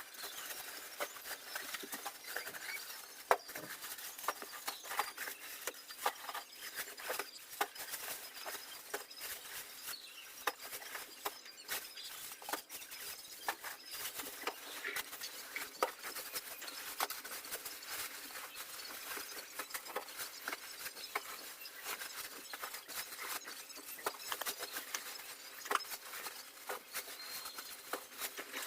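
Continual rustling and crinkling of packaging being handled, with many small irregular clicks and taps.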